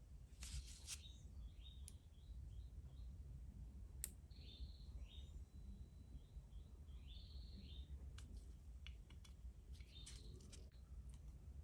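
Faint bird chirping, two runs of short repeated notes, with scattered light clicks of small parts or tools being handled, the sharpest about four seconds in, over a low steady hum.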